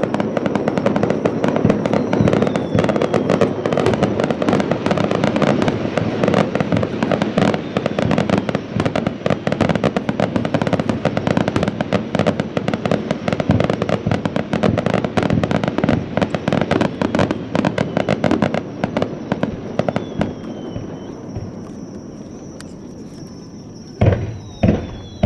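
Aerial fireworks barrage: a dense, continuous crackle of many rapid small bangs that thins out and dies down over the last few seconds. Near the end a few heavy separate booms of large shells break.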